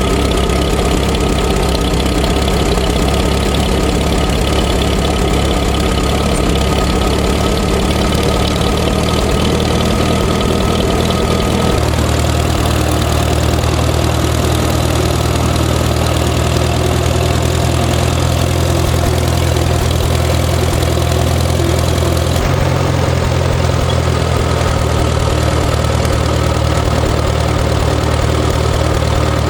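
Engine idling steadily after a cold start, with a strong low rumble; its tone shifts abruptly twice, about twelve and about twenty-two seconds in.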